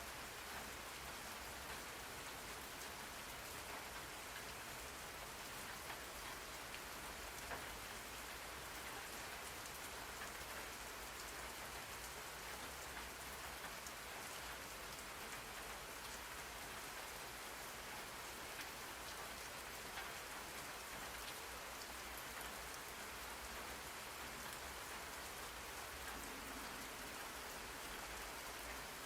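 Steady rain falling on a surface, a continuous hiss of rain sounds with scattered droplet patters, used as white noise.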